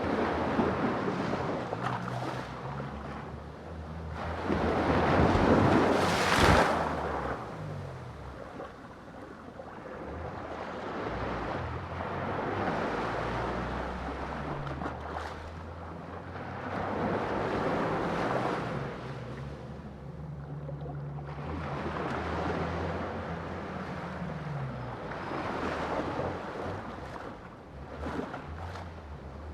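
Sea waves breaking and washing in, swelling and fading every few seconds, the biggest surge about six seconds in, over a low steady drone.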